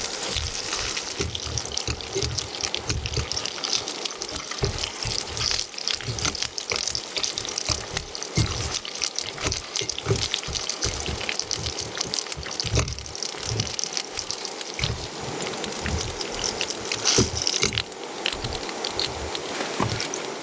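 Heavy rain falling, a dense patter of drops with many close, dull thumps as drops strike near the microphone; it cuts off suddenly at the end.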